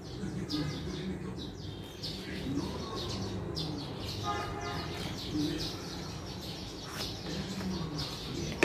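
Small birds chirping over and over in short, quick notes, over a low steady hum. One sharp tap comes right at the end.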